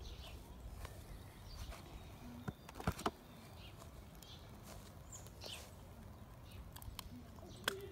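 Faint outdoor ambience with scattered short bird chirps, and a few sharp clicks about three seconds in and again near the end.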